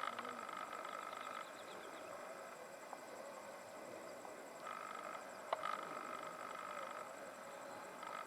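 Evening chorus of calling insects: a high, steady trill with a lower pulsing call that comes and goes in stretches of a second or two. There is a single sharp click about five and a half seconds in.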